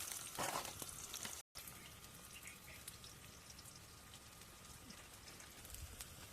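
Quail curry frying, sizzling and crackling with sharp pops, which cuts off about a second and a half in. After that only a faint, even background hiss with a few soft ticks remains.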